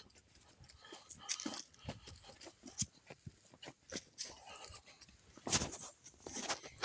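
Footsteps crunching on a woodland dirt trail in an irregular series of scuffs, with a louder scuff about five and a half seconds in.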